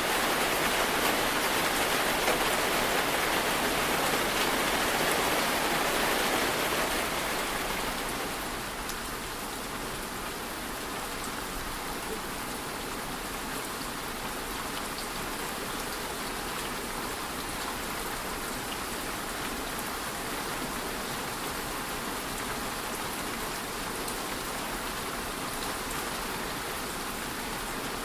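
Steady rain falling: a dense, even hiss with faint scattered drop ticks. It is louder for the first six or seven seconds, then eases to a softer, steady level.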